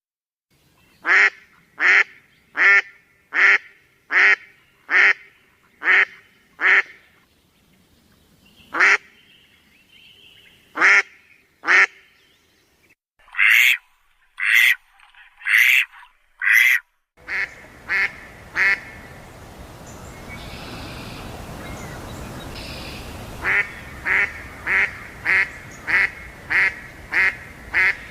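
A bird calling over and over in short, loud, evenly spaced calls, about one a second, with a few pauses. About two-thirds of the way through, a steady background hiss comes in and the calls come a little faster.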